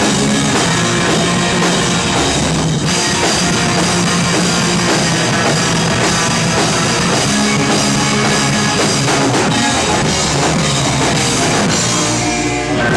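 Live rock band playing loud, with drum kit and guitar, the song ending at the very close.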